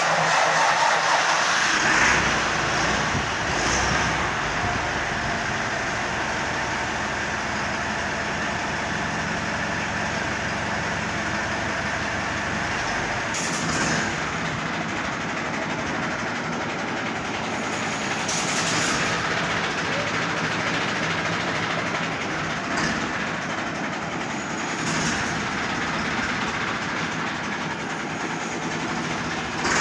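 Massey Ferguson 385 tractor's diesel engine running steadily and loudly, a dense mechanical clatter that holds without a break.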